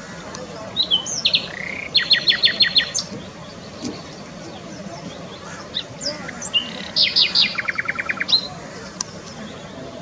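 Birds calling: two quick runs of repeated high notes, about two seconds in and again about seven seconds in, with scattered single chirps between them.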